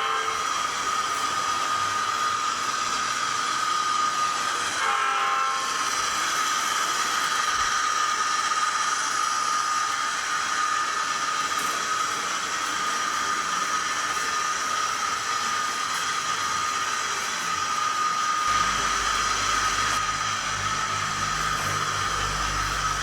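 Sound decoder of an SDS Models NR class model locomotive playing its diesel locomotive sound through the model's small speaker: a steady hissy drone with a high steady tone. There is a brief pitched sound about five seconds in, and a low rumble joins from about three quarters of the way through.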